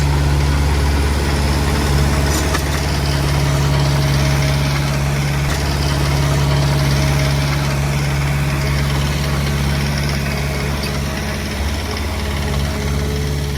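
Diesel engine of a small Komatsu D20P bulldozer running steadily with a deep, even hum, without clear revving.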